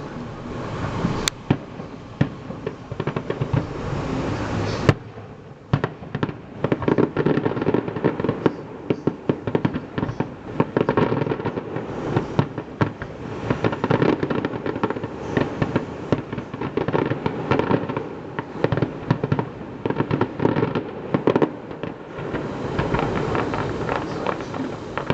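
Fireworks display: a rumble with a few sharp bangs, then from about five seconds in a dense run of rapid bangs and crackling.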